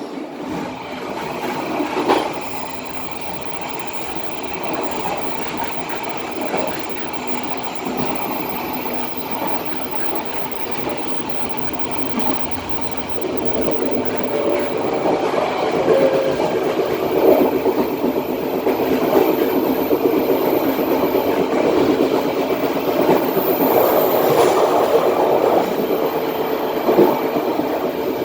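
Passenger train wheels running on the rails, heard from the rear of the last carriage: a steady rumble and rattle with occasional knocks, growing louder about halfway through.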